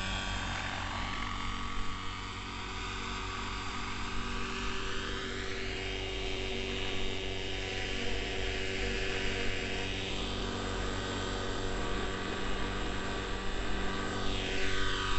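Neo Caliber 50 nitro RC helicopter flying, its glow engine and rotor making a steady drone at raised rotor speed. The pitch sweeps up and down as it passes back and forth, once mid-way and again near the end.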